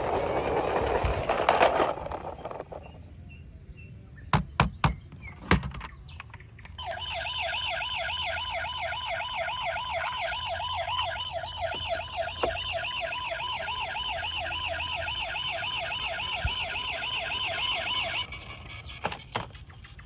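Electronic toy siren sounding a fast, steady warble for about eleven seconds, then cutting off abruptly; a few sharp clicks come shortly before it starts.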